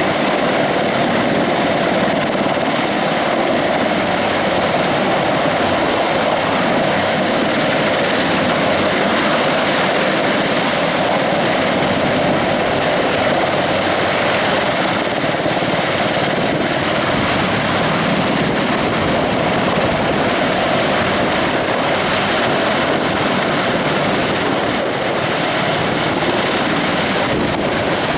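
Mi-26 heavy-lift helicopter running: loud, steady turbine and rotor noise with a thin high whine over it.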